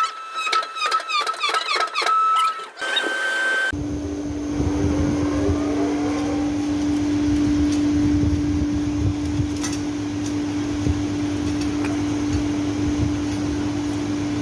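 A steady machine motor hum with a low rumble and a few faint clicks, starting suddenly a few seconds in. Before it there is a short rhythmic, tonal passage.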